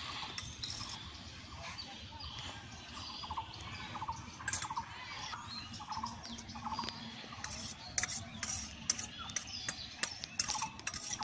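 Birds calling, short repeated calls spread through the whole stretch, with a few sharp clicks in the second half.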